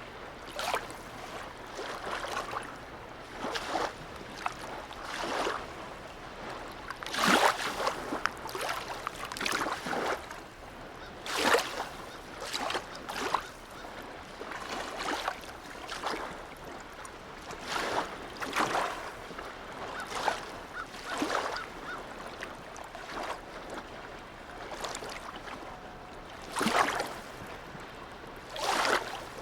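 Small harbour waves lapping and splashing irregularly, every second or so, with a few louder slaps among them.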